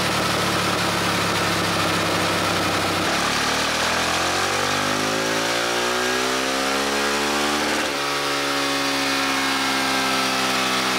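KTM Duke 690's single-cylinder LC4 engine running on a chassis dyno in stock tune: it holds steady revs for about three seconds, then the revs climb steadily in a full-throttle power run. There is a brief dip about eight seconds in before the pitch keeps rising.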